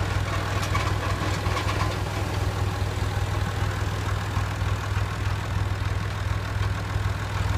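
Tractor engine running steadily: a low, even drone with fast regular pulsing, and a few faint ticks in the first couple of seconds.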